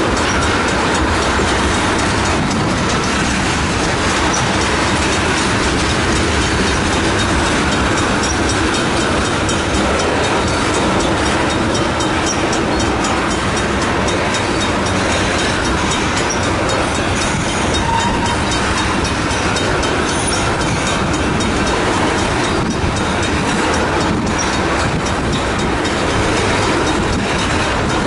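Freight train of tank cars rolling steadily past: steel wheels running on the rails, a loud, unbroken rumble.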